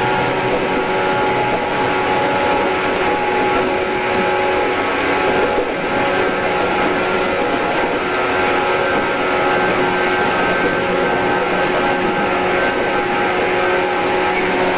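JR East 113 series electric train running at a steady speed, heard from inside the car: an even rumble of wheels on rail with motor and gear whine held at one pitch.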